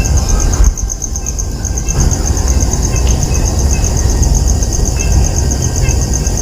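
Insects chirring in a fast, even pulse, high-pitched and steady, over a loud low rumble, with a few short high chirps here and there.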